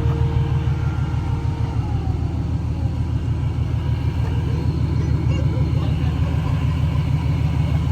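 Car engine idling with a steady, deep exhaust rumble.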